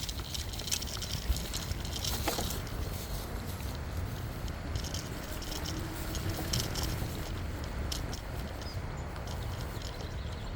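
Riding a bicycle: a steady low rumble of wind and rolling tyres, with scattered light clicks and rattles from the bike.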